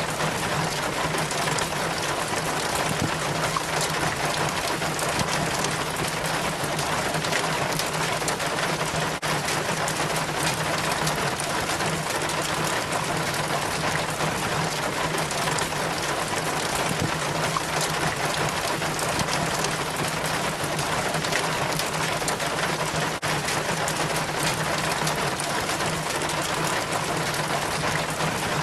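Rainwater trickling and splashing down a rain chain from a roof gutter, a steady, unbroken flow of water sound. A low steady hum runs underneath.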